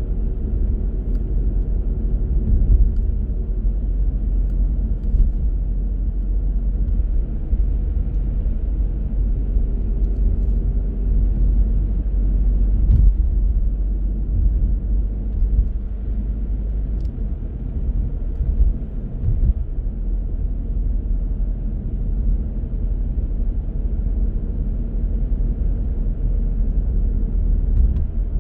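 A car driving along a road: a steady low rumble of engine and tyre noise, with a faint engine hum that comes and goes.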